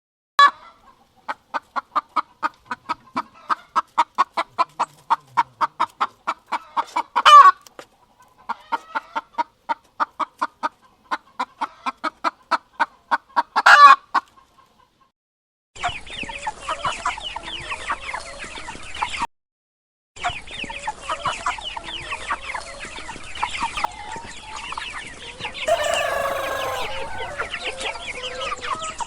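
A hen cackling twice: a run of short, evenly spaced clucks, two to three a second, each time ending in one loud drawn-out squawk. After a pause comes a flock of chickens clucking and calling over one another, with a louder call near the end.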